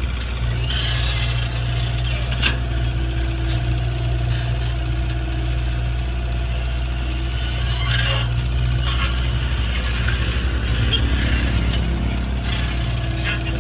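Hitachi mini excavator's engine running steadily, with a few short, sharp knocks from the machine at work.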